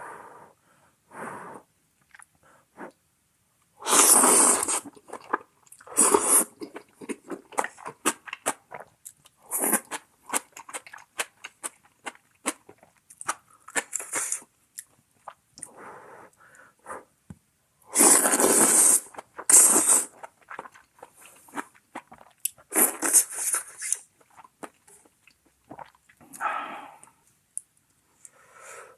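Close-miked eating sounds: wet chewing and many short mouth clicks, broken by a few loud noisy slurps about a second long, the loudest around four and eighteen seconds in.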